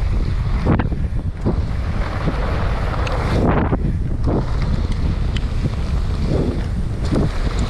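Wind buffeting the microphone during a mountain-bike descent on muddy trail, with scattered knocks and rattles from the bike over rough ground and brief swells of tyre noise.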